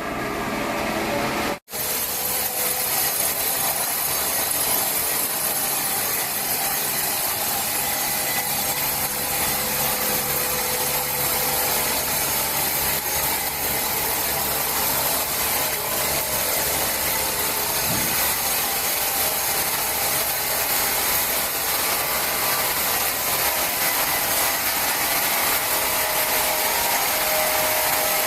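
Large sawmill saw cutting steadily through a big log, a continuous even sawing noise, with a momentary dropout under two seconds in.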